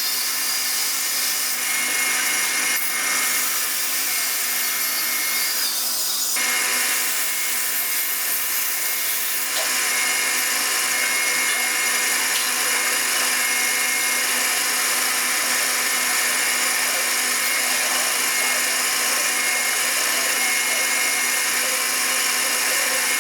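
Small workshop power tool running steadily: an even hissing motor noise with a faint steady whine, stepping up slightly in level about ten seconds in.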